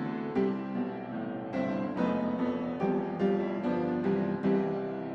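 Background piano music: a gentle melody of single struck notes and chords, each ringing and fading before the next.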